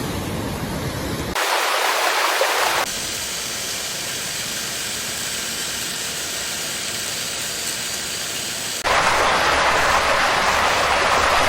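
Steady rushing noise of flowing floodwater, changing abruptly in level and tone three times as the footage cuts between shots.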